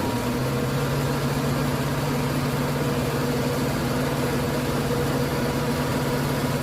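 Heavy diesel truck engine running steadily at raised revs, as the driver makes another attempt to climb a rain-slick road. The note lifts slightly about half a second in and then holds even.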